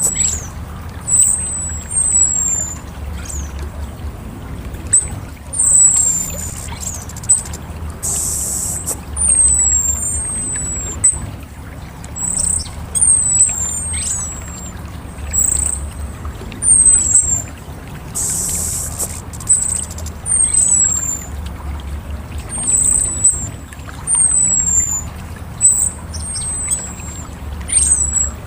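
Orange-headed thrush (anis merah) singing: a long run of short, very high whistled notes, most sliding downward, a few to a couple each second, broken by occasional hissy high bursts about a second long. A low rumble runs underneath.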